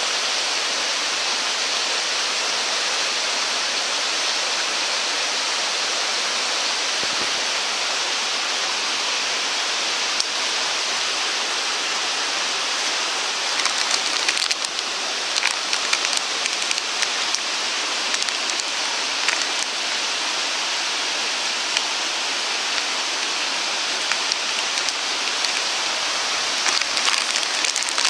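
Steady rushing noise like running water, with scattered light crackles and ticks in the middle and again near the end.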